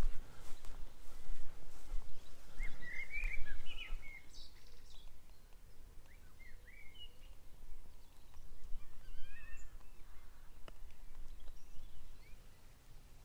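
Small birds chirping in short, scattered calls, the most in a cluster about three seconds in, over an uneven low rumble that fades after the first few seconds.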